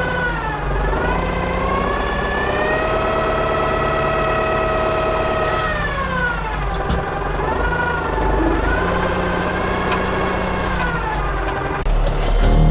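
Kubota M105S tractor running, with a whine whose pitch drops and climbs again several times as the revs change under load. A deeper rumble swells near the end.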